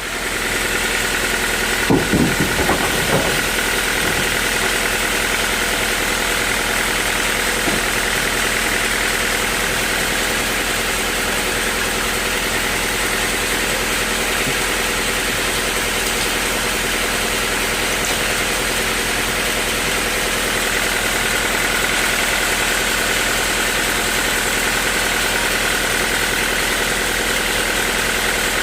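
Sawmill machinery running steadily with a constant hum and whine, with a few heavy knocks about two seconds in.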